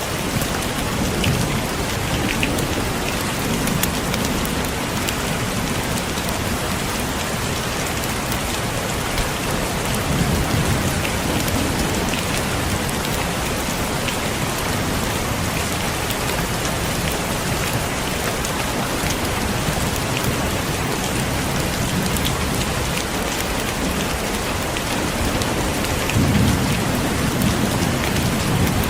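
Heavy rain falling steadily in a dense patter, with individual drops ticking through it. Low rumbles of distant thunder swell up about a second in, around ten seconds in and near the end.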